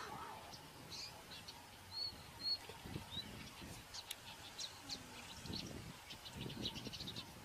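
Small birds chirping in short, high calls, sparse at first and then many in quick succession from about four seconds in, over a low rumbling background noise.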